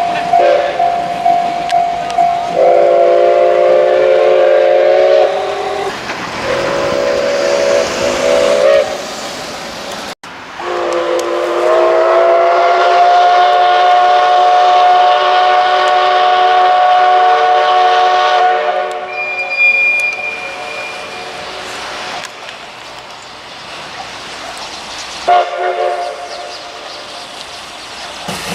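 Steam locomotive whistle of the C58 239 that hauls the SL Ginga, sounding a chord of steady tones. There are two blasts of a couple of seconds each, then a long blast of about eight seconds, then a short blast near the end, over the running noise of the train.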